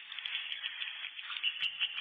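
Swiftlets chirping in a dense, continuous chatter of many overlapping high calls.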